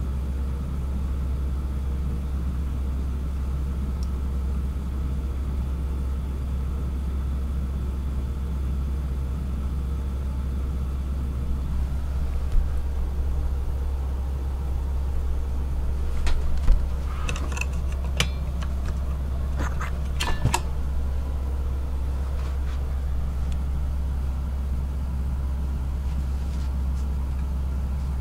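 Steady low hum inside a standing SJ InterCity passenger train held at a signal, with no motion noise. A few brief clicks and knocks come about two thirds of the way through.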